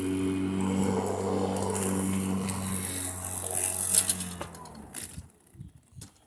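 Battery-powered electric lawn mower running with a steady, fairly quiet hum. It is switched off a little past four seconds in and winds down quickly, leaving only faint clicks.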